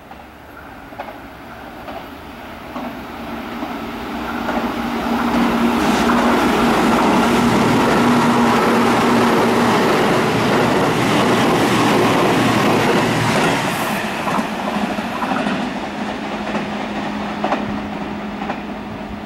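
A Tobu Skytree Line electric train passing through the station without stopping. Its rumble and wheel noise build as it approaches and are loudest for several seconds as the cars go by, with a steady low hum beneath. Then it fades as the train pulls away.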